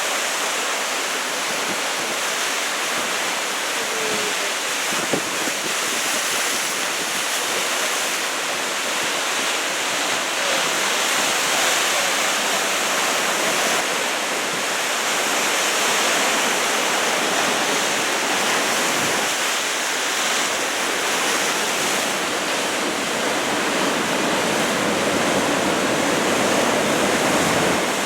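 Ocean surf breaking and washing in after a typhoon: a steady rush of white water that swells and eases slowly.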